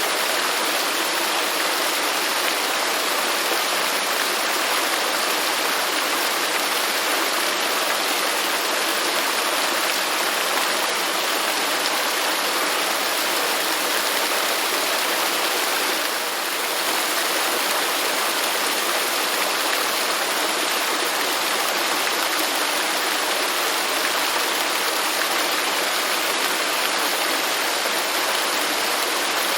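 Waterfall: a steady, unbroken rush of falling water, with a brief slight dip in level a little past halfway.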